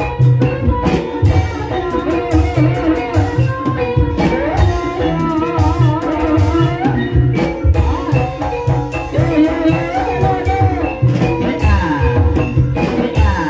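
Gending ebeg: live Banyumasan gamelan music, with repeated low drum strokes and ringing metallophone tones under a wavering melody line.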